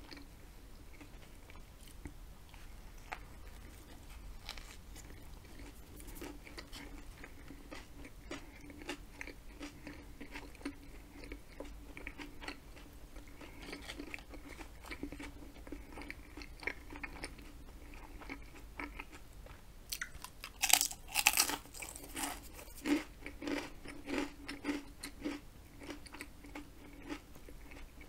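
A person chewing a Subway salami-and-ham sub: many small mouth clicks and soft chewing, with a louder crunchy burst about twenty seconds in, followed by several more chewing bursts.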